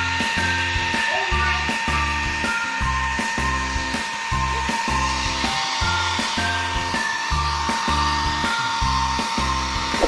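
Handheld pet grooming hair dryer blowing steadily with a constant whine, drying a cat's wet fur. Background music with a steady beat of about two pulses a second plays over it.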